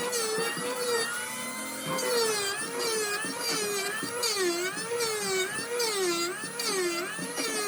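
A small high-speed power tool motor whining, its pitch dipping and recovering again and again, about twice a second, as the tool is pressed into the wood.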